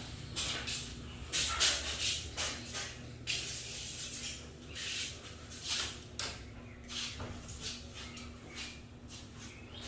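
Genie garage door opener motor humming steadily, with irregular squeaky, scraping bursts about once or twice a second as it strains without lifting the door. The repairman blames this on a worn-out trolley.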